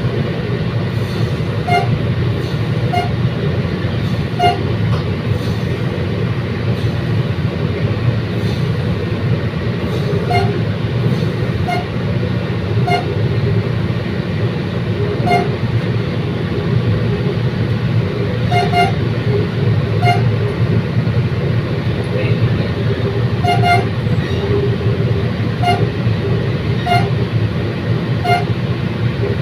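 Commuter train running along the track: a steady low rumble with short clacks every second or so.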